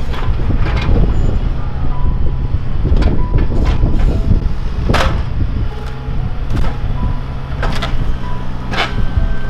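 Heavy demolition machine running steadily with a low engine drone, over which wood and metal of an old mobile home crack and crunch at irregular intervals. A faint beeping repeats about once a second.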